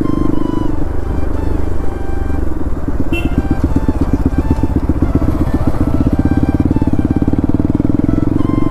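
Bajaj Pulsar NS200's single-cylinder engine running on the move. Its note drops off about a second in, with the separate firing pulses heard for a few seconds before it settles back to a steady hum.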